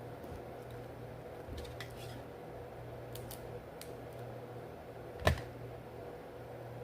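A few faint light clicks, then one sharp knock a little over five seconds in, over a steady low hum.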